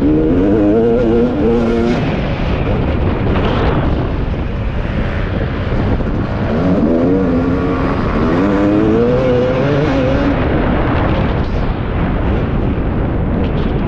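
Husqvarna TC 250 motocross bike engine revving hard, its pitch climbing twice as it accelerates out of corners. It is heard under heavy wind rumble on the onboard microphone.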